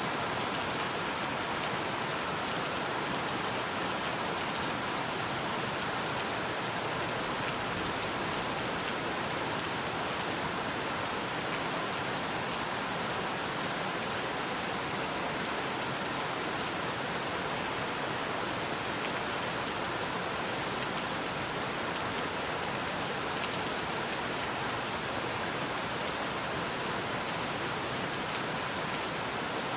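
Steady rain falling: an even hiss with a fine patter of individual drops, constant throughout.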